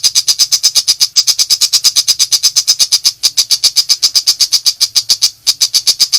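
Long-tailed shrike (pentet macan) in full rapid-fire song: a fast, even run of sharp, harsh, clicking notes at about ten a second, with a short break a little after five seconds.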